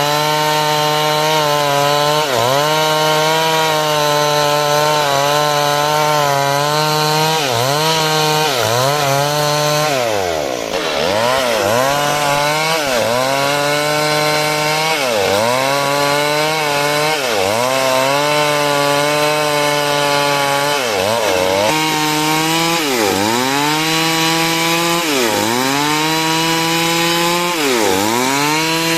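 Chainsaw cutting wood without a pause. The engine's pitch dips sharply and climbs back again about every second or two as the chain bites into the timber, with a deeper dip about ten seconds in.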